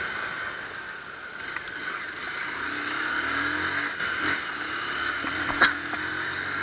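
Motorcycle running steadily while being ridden, quiet without its aftermarket exhaust pipe. A single sharp crack comes about five and a half seconds in.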